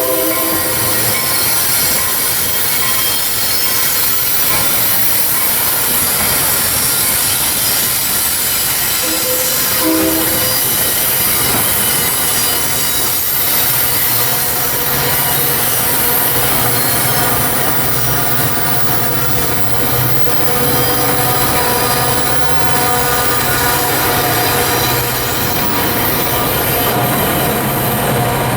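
Metra commuter train rolling through the station tracks, a steady loud rumble with steel wheels squealing on the rails. Short horn tones sound at the start and again about ten seconds in.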